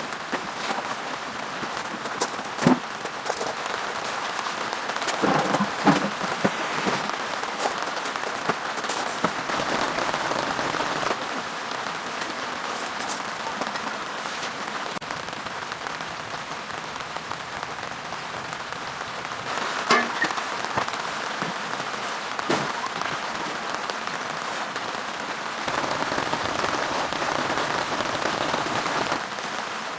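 Steady rain falling, with many small drop ticks and a few louder, sharper hits, about 3 and 6 seconds in and again near the middle.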